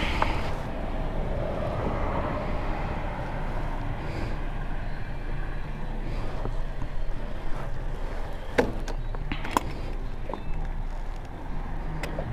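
Motorcycle engine running steadily, a low rumble, with a few sharp clicks in the second half.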